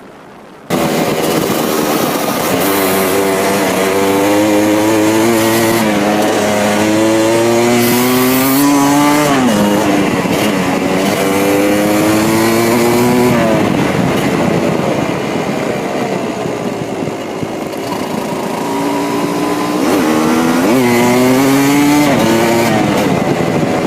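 Yamaha DT200's single-cylinder two-stroke engine running with its pitch repeatedly climbing over several seconds as the revs rise, then falling back, with a steadier lower stretch midway. It comes in about a second in.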